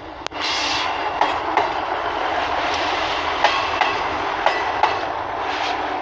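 Train moving through the station close by: a loud, steady rush of wheel and rail noise that starts suddenly just after the beginning, with irregular sharp clicks as the wheels cross rail joints and points.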